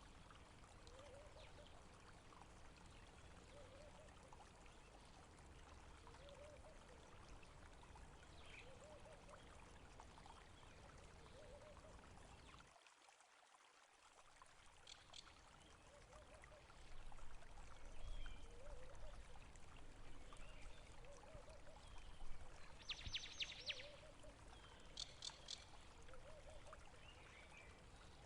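Faint flowing water, like a stream or trickle, with a few short bird chirps. The sound drops out briefly about halfway through, then comes back louder and more uneven.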